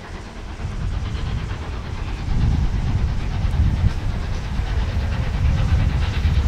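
Steam-hauled train running on the line out of sight, its low rumble growing steadily louder as it approaches.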